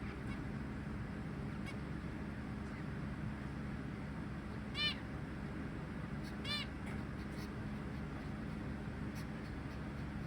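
Zebra finch giving two short calls, about a second and a half apart, near the middle, over a steady low hum.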